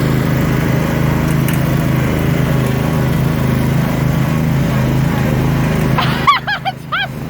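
Riding lawnmower engines running steadily under load, pulling against each other in a chained tug of war. About six seconds in, the engine sound drops off suddenly and a few short chirps follow.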